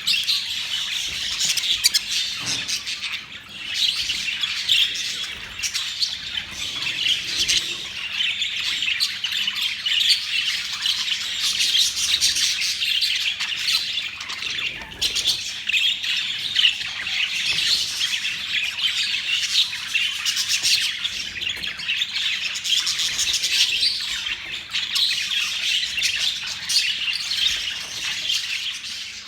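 A flock of budgerigars chattering continuously, a dense mix of warbles, chirps and squawks.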